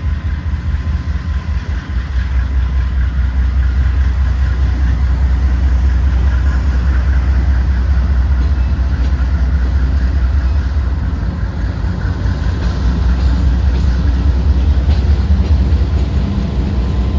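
GE AC4400CW diesel-electric locomotive running, its 16-cylinder engine giving a deep steady rumble that steps up louder about two seconds in and holds.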